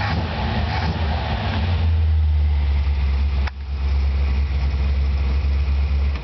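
1955 Chevrolet's engine running steadily, a deep low-pitched sound heard from inside the car's cabin, with a single sharp click about three and a half seconds in.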